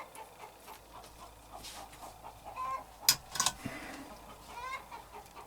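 Short clucking bird calls, repeated several times, the sharpest and loudest a little after three seconds in.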